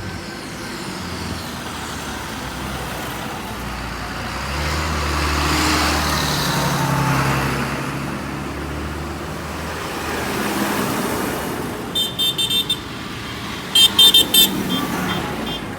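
A tractor's diesel engine rumbling as it passes, loudest around five to seven seconds in. Near the end, two bursts of rapid, high-pitched horn toots.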